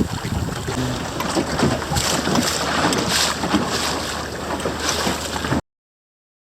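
Wind buffeting the microphone over water rushing and splashing along a small sailing dinghy's hull. The sound cuts off suddenly near the end.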